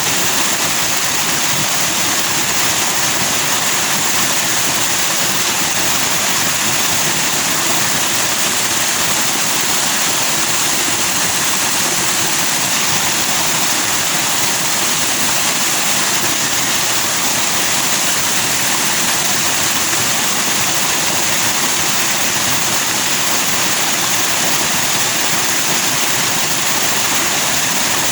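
Stream rushing over rocks with white foam, a steady loud hiss of splashing water with no breaks.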